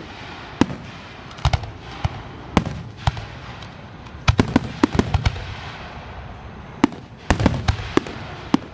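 Fireworks display: a string of sharp bangs at irregular intervals, some with a low rumble after them, bunching into quick volleys around the middle and again near the end.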